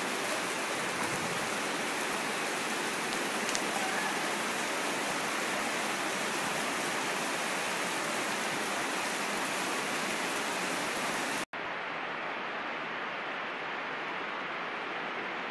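Heavy rain falling steadily, a dense even hiss of rain on the ground. About three-quarters of the way through it cuts out for an instant and comes back a little quieter and duller.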